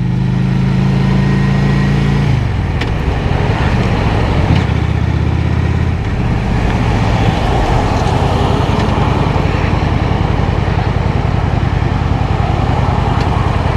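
Honda Shadow 750's V-twin engine running under way, its tone dropping about two seconds in, with wind and road noise rushing over the helmet microphone.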